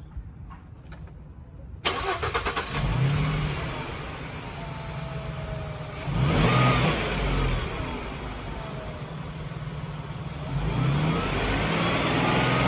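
2015 Ford Transit 350 van engine cranking briefly about two seconds in, catching and revving, then settling to idle. It is revved once about six seconds in, drops back to idle, and near the end is raised to a higher steady speed.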